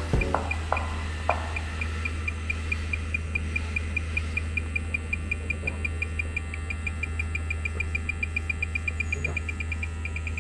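Leak detector beeping in a rapid, even train of short high tones over a steady low hum, the beeps speeding up a little partway through: the rising rate means the probe is getting a stronger reading as it nears the leak. A few sharp clicks in the first second or so.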